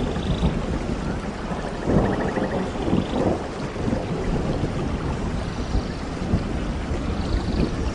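Rain falling steadily, with low rolling thunder rumbling through it and swelling about two seconds in.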